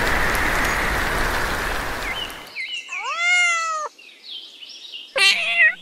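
Steady rain hiss that cuts off suddenly a little over two seconds in. A cat then meows: one long, arched meow about three seconds in, and a shorter, wavering cry near the end.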